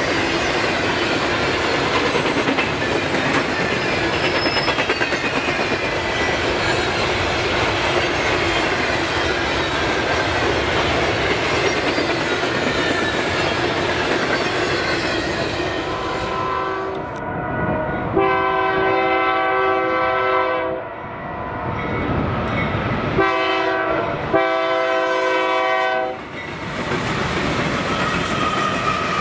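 A train rolling past with steady wheel-on-rail noise and clickety-clack. Partway through, a locomotive air horn sounds four blasts over about ten seconds, the second and fourth the longest, and then the rolling noise carries on.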